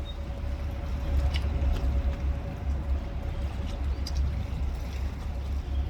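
Wind buffeting the microphone, a steady low rumble that swells and eases, with a faint steady hum and a few light clicks.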